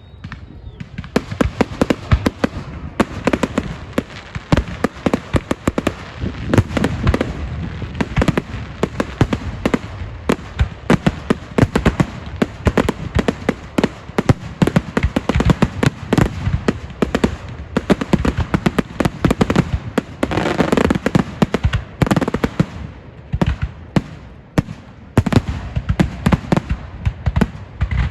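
Fireworks going off in a dense, rapid barrage of cracks and bangs from about a second in, with a short lull near the end.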